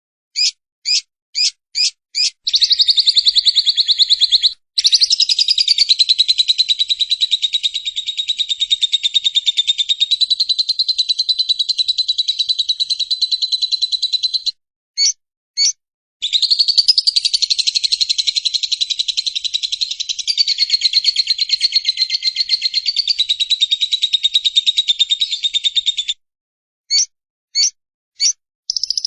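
Lovebird 'ngekek': a few single chirps, then a long, rapid, continuous chattering trill for about twelve seconds, a brief break with two chirps, and a second long trill of about ten seconds, ending in single chirps.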